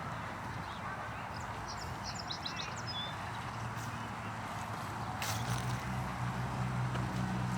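Small birds chirping a few short times over a steady outdoor hiss. About five seconds in, a low steady hum comes in underneath.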